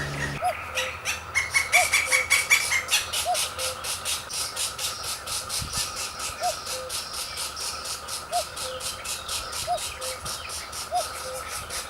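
Woodpecker nestlings begging at the nest: a fast, rhythmic run of short, squealing calls, about five a second, loudest in the first few seconds.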